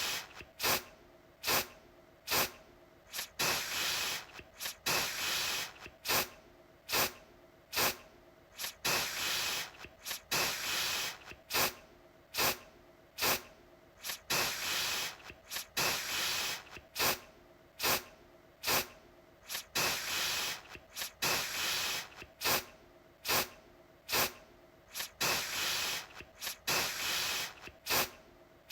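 Aerosol deodorant can spraying in repeated short hissing bursts, about two a second. Some bursts are quick sharp puffs and others are slightly longer sprays.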